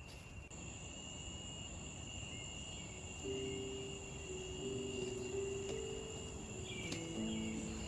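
Insects keeping up a steady high-pitched drone, with soft background music of low held notes coming in about three seconds in.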